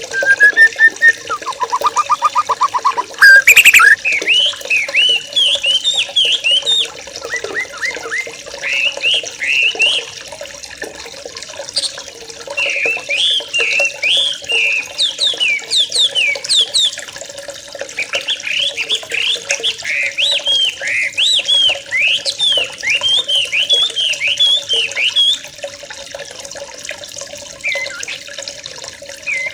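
A flock of young yellow-vented bulbuls (trucukan) chattering: many short chirps sweeping up and down in dense, overlapping runs, with a lower buzzy trill near the start.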